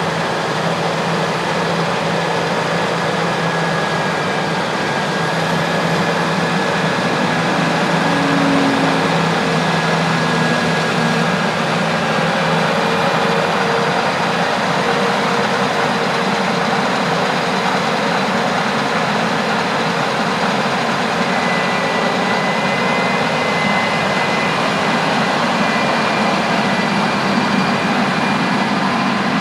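Heavy harvest machinery running steadily: a continuous diesel-engine drone with faint steady whines over it.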